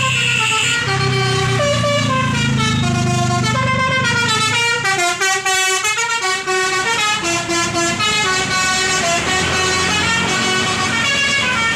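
Bus musical "telolet" horn, a multi-tone air horn playing a quick melody of stepping notes, with a low hum under it for the first few seconds.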